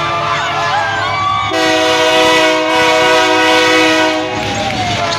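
GE C30-7 diesel locomotive's air horn sounding one long blast of several notes at once, starting about a second and a half in and lasting nearly three seconds, over the rumble of the train and shouting from onlookers.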